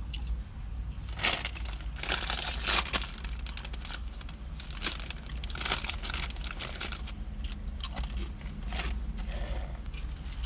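Sandwich wrapper paper crinkling in irregular bursts as a sub is handled while being eaten, over a steady low hum.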